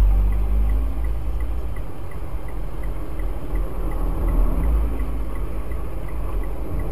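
A car's engine idling with a steady low rumble while the car stands still in traffic.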